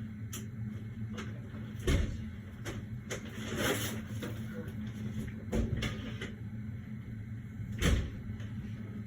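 Scattered knocks and clunks of objects being handled and set down, three of them sharp and loud, over a steady low hum.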